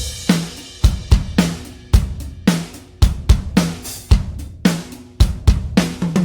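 Sampled acoustic drum kit from the Toontrack EZdrummer 3 plugin playing a steady groove of kick drum, snare and cymbals, with sharp hits about twice a second.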